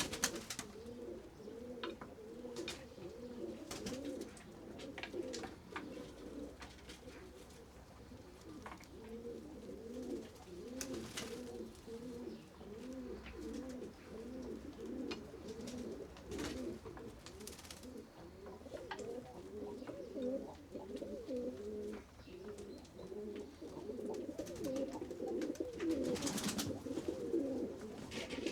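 Several pigeons cooing continuously, their low coos overlapping one another without a break. Short, sharp noises sound now and then, the loudest about 26 seconds in.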